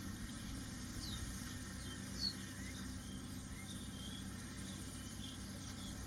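Scattered short, high bird chirps, a few seconds apart, with the loudest a little over two seconds in, over a steady low rumble.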